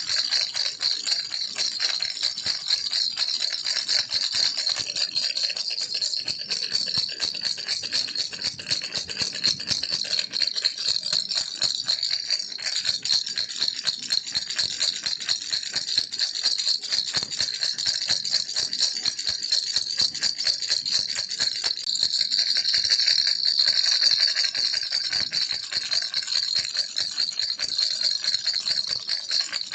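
Baby rattle (kilukku) shaken continuously: a dense, steady stream of fast, bright clicks, with no pauses.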